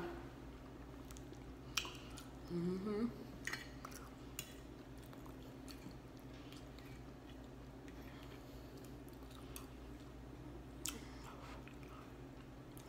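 Close-miked mukbang eating sounds: quiet chewing of chicken pot pie with scattered small mouth clicks. About two and a half seconds in, a short hum with rising pitch.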